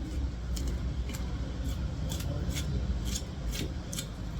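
A run of sharp snips or clicks, about two a second, from a bigfin reef squid being cut and cleaned, over a low steady rumble.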